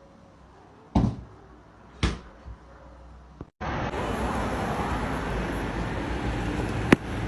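Two sudden thumps about a second apart, then a steady hiss of background noise with one sharp click near the end.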